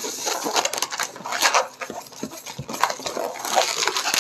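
Inflated latex 360 modelling balloon squeaking and rubbing in short irregular squeaks as it is handled and twisted.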